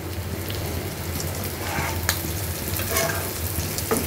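Sliced spiny gourd (kakrol) and onions sizzling in mustard oil in a wok-style pan while being stirred with a spatula: a steady frying sizzle with a couple of short scrapes of the spatula against the pan, about two seconds in and near the end.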